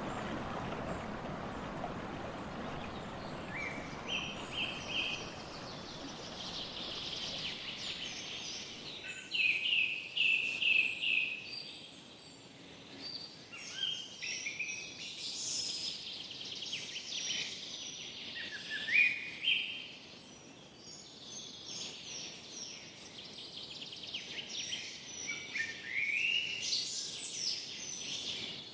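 Forest songbirds singing: repeated chirps, short trills and quick rising and falling whistles. A steady rushing wash is heard in the first several seconds and fades out.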